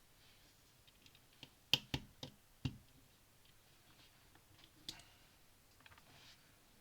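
Plastic Lego pieces clicking as they are handled and snapped together: a quick run of four sharp clicks around two seconds in, another near five seconds, and fainter ticks between.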